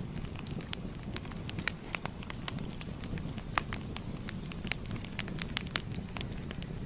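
Fire crackling: irregular sharp pops and snaps over a low, steady rumble of flames.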